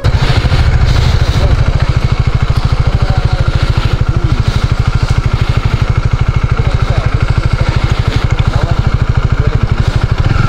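KTM Duke motorcycle's single-cylinder engine idling close to the microphone: a steady, fast, even thudding pulse.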